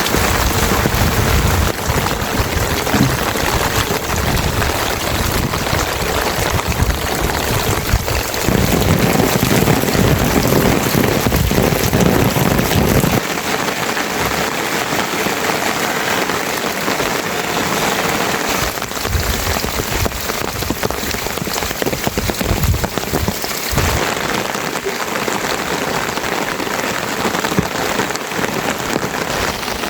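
Heavy rain falling steadily. For about the first thirteen seconds a low rumble sits under it, then that rumble stops abruptly.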